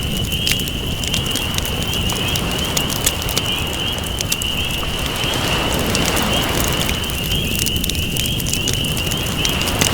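Campfire crackling with frequent small pops over the wash of ocean waves, with a steady high-pitched trill running underneath.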